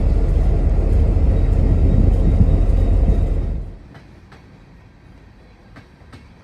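Train running, a loud low rumble that cuts off abruptly about three and a half seconds in, leaving a few faint clicks.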